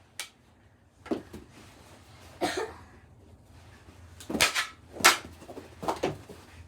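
Knee hockey play: about six irregular knocks and scuffles of plastic mini sticks, ball and bodies on the floor, the loudest hit about five seconds in.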